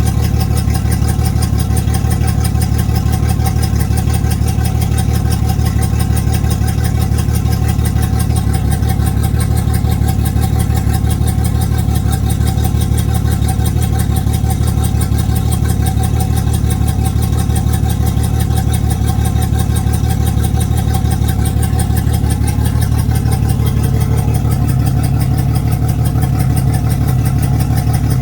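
Yamaha F225 V6 four-stroke outboard motor idling with an even pulsing beat, a rough idle that the owner is showing as a fault. Its note shifts slightly lower and heavier about three quarters of the way through.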